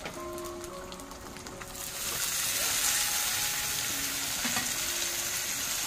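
Sliced tomatoes tipped into hot oil and onions in a wok: a soft frying hiss jumps to a loud, dense sizzle about two seconds in.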